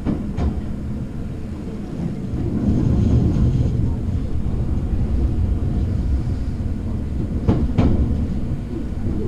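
Hankyu electric train running, heard from inside the car: a steady low rumble of wheels on the rails that swells about two and a half seconds in, with sharp clicks of the wheels crossing rail joints near the start and a pair of clicks about three quarters of the way through.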